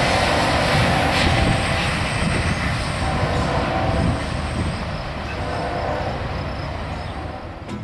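A freight train's last cars, an open gondola and a caboose, rolling past with their wheels running on the rails. The sound fades steadily as the rear of the train moves away.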